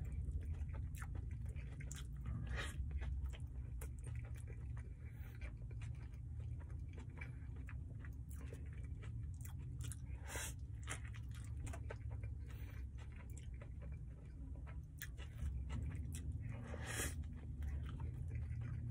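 Close-up chewing and biting into a steak burrito in a soft flour tortilla: wet mouth sounds with scattered small crunches and a few louder bites. A steady low rumble runs underneath.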